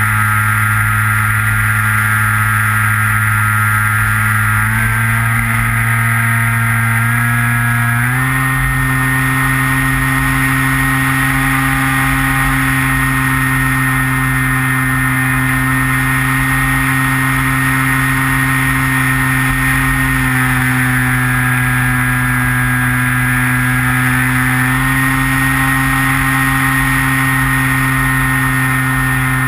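Onboard sound of a Skywalker RC plane's electric motor and propeller running with a steady drone, under a low wind rumble. Its pitch steps up slightly about 5 and 8 seconds in as the throttle changes, dips about 20 seconds in and rises again near 25 seconds.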